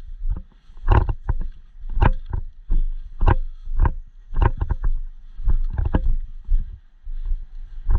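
Footsteps crunching over rough ground, an uneven step about every half second to a second, with rustling and a low rumble on the microphone.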